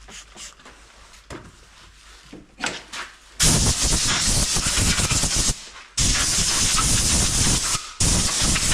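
Pressurised jet hissing in three long bursts with abrupt starts and stops, blasting dirt off engine parts, after a few small clicks.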